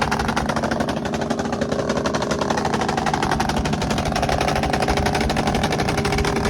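Motorcycle engine running with a rapid, even putter.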